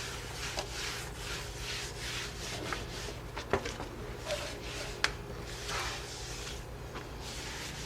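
Cloth wiping a floor with cleaner: a run of irregular rubbing swishes with a couple of small knocks, over a steady low hum.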